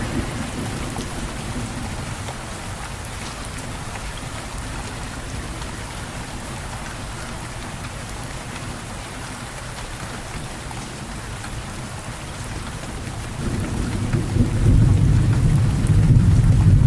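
Steady rain falling. Near the end a low rumble of thunder swells in and grows louder.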